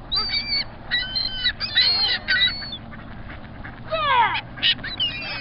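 Pond waterfowl calling: a quick run of sharp, pitched calls, then several downward-sliding calls about four seconds in, and a few more near the end.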